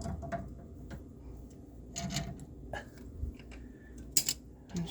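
Channel-lock pliers scraping and clicking on a metal fitting of a small electric water heater as it is gripped to be unscrewed. A sharp click comes about four seconds in.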